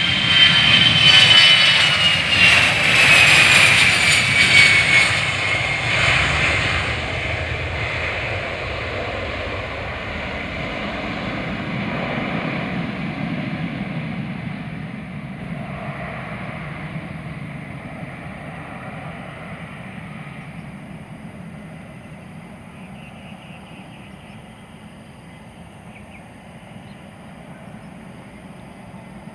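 An aircraft passing by. It is loudest in the first few seconds, with a whine that falls in pitch, then fades away slowly.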